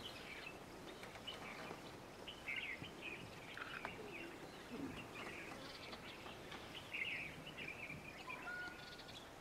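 Faint, scattered bird chirps over a low background hiss, with a short steady whistled note near the end.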